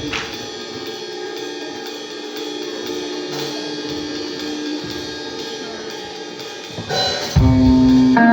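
Live rock band playing: a quieter passage of held guitar tones and cymbals, then the full band with drums and bass comes in loud about seven seconds in.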